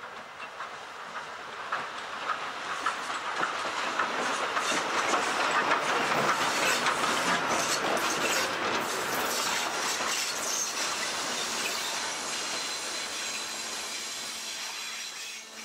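Heritage train passing close by, steam locomotive Rx207 leading carriages with an Alco diesel at the rear. Its wheels clatter over the rail joints in quick clicks, growing loud about five seconds in as the carriages go by, then slowly easing.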